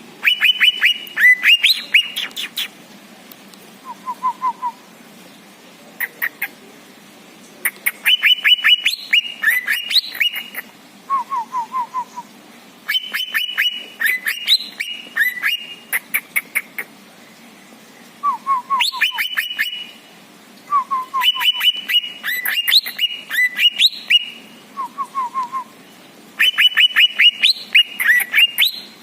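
A songbird singing in repeated bursts about every five to six seconds: rapid chattering trills and whistled notes, with a short low falling run of three or four whistles between bursts.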